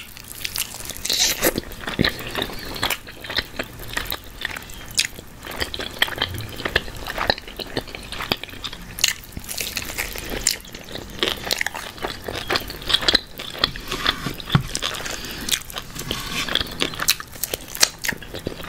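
Biting and chewing a barbecue-sauced chicken drumstick: many irregular short, sharp mouth clicks and smacks.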